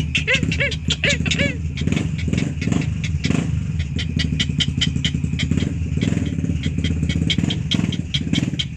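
A small engine running steadily with a low hum, mixed with rapid irregular clicking. In about the first second and a half there is a quick series of short rising-and-falling chirps.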